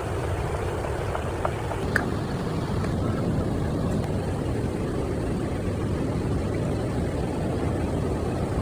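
Steady rush of a waterfall and river, a dense low roar that holds even throughout, with a couple of faint clicks in the first two seconds.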